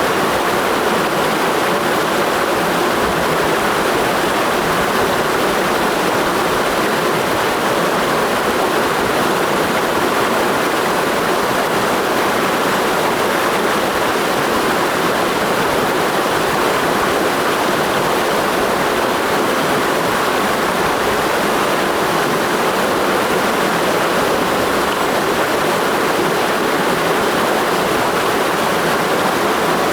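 Clear mountain stream rushing over rocks in a steady, even flow.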